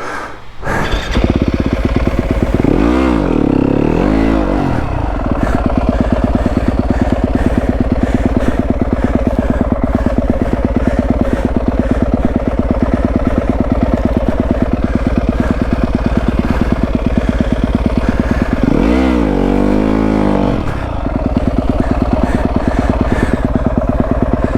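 Yamaha WR250F's single-cylinder four-stroke engine running from about a second in, mostly steady, revving up and back down twice, briefly near the start and again near the end.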